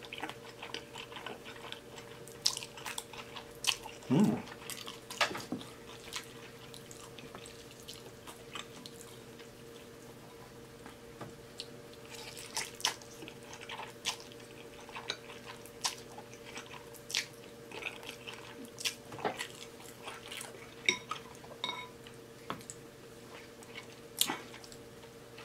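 Close-miked eating of black bean noodles: wet chewing and repeated lip smacks, with one louder mouth noise about four seconds in.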